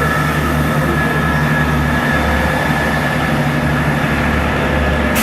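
Train running steadily: a loud low hum with a few faint steady whining tones above it.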